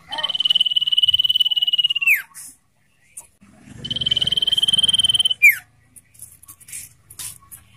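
Common iora singing its long trilled song: two drawn-out, rapidly pulsing high notes, the first about two seconds long and the second about a second and a half, each ending in a quick downward slur. Short chips come between and after them.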